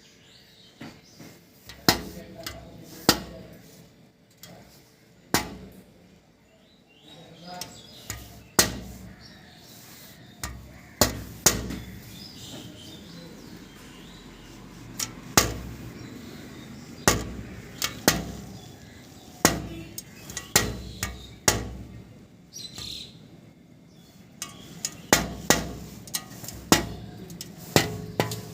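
Woodpecker pecking: single sharp knocks at uneven intervals, about twenty in all, often a second or two apart and sometimes in quick pairs.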